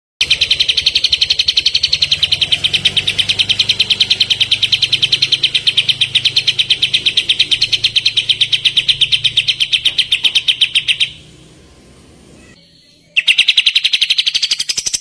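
Kapas tembak songbird giving its rapid-fire 'tembakan' call: a fast, even string of short high notes, about eight a second. It breaks off about eleven seconds in and starts again two seconds later.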